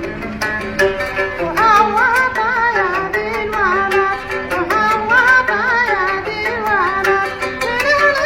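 Homemade oud-style plucked string instrument picked in quick repeated strokes, playing Arabic-style music. About a second and a half in, a high, ornamented singing voice comes in over it: a man singing in imitation of a female singer's voice.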